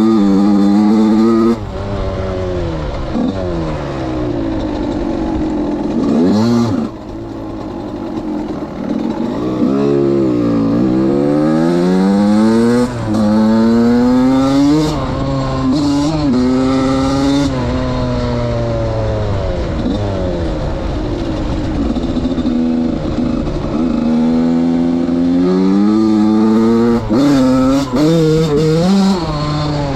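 Suzuki RM85's single-cylinder two-stroke engine being ridden hard, revving up and down over and over as the throttle is opened and shut, with short drops in loudness when the throttle is closed, about 1.5 and 7 seconds in.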